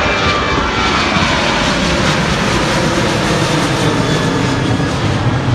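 Loud jet engines of a Ryanair Boeing 737 passing close by. The steady roar carries a whine that slowly falls in pitch in the first few seconds.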